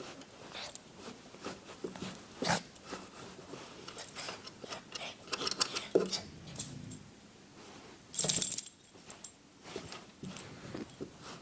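Dog gnawing and biting a chew toy: irregular clicks, knocks and scrapes of teeth on the toy, with a brief loud jingling rattle about eight seconds in.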